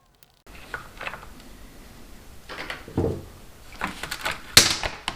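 Irregular clicks and light knocks from a screwdriver and a motorcycle cover being worked loose and lifted off, the sharpest knocks near the end.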